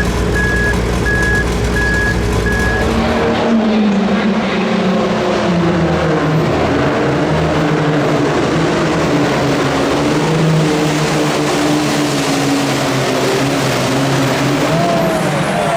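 Backup alarm beeping over a heavy low engine rumble, then a sudden change about three seconds in to a pulling vehicle's engine running hard, its pitch rising and falling.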